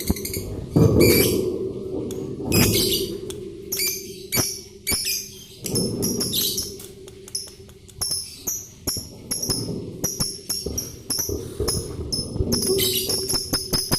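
Lovebirds chirping and chattering in quick, high-pitched bursts, mixed with sharp clicks. Near the end comes a fast run of clicking notes, about four a second.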